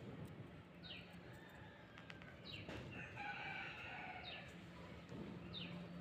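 Faint rural bird sounds: a small bird repeating a short high call that falls in pitch, about once every second and a half to two seconds, and a rooster crowing once, about three seconds in.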